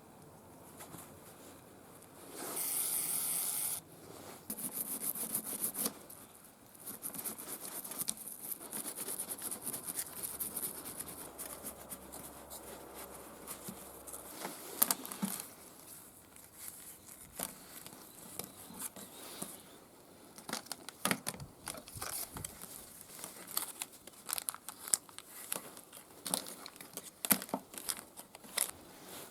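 Hand work on small parts: a short burst of noise a few seconds in and another soon after, then scattered clicks, scrapes and rubbing.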